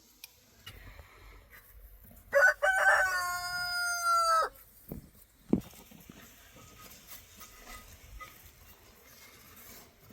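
A rooster crows once, a call of about two seconds that sags in pitch as it ends. A single sharp knock follows a second later.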